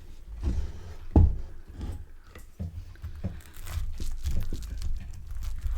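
Knife cutting through a chunky battered cod fillet on a board: a run of crackles and knocks, with one loud knock about a second in.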